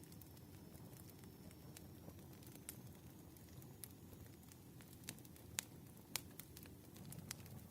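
Wood fire burning softly: a low rumble with scattered sharp crackles and pops, two louder pops a little past halfway.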